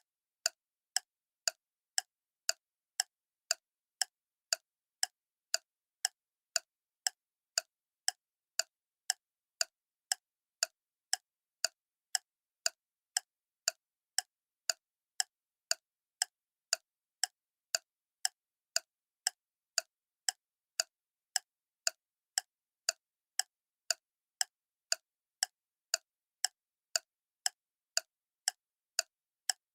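Clock ticking steadily, about two crisp ticks a second.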